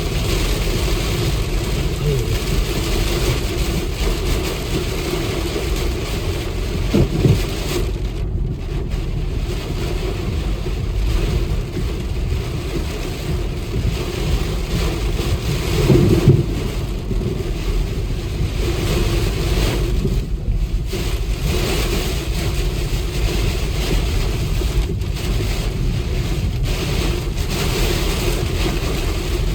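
Steady rain and wind noise on the microphone over a low engine drone, with two brief louder low bumps.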